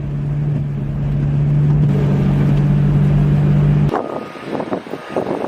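A vehicle engine running with a steady low hum and rumble, cutting off suddenly about four seconds in; after it come quieter scattered knocks and a faint high tone.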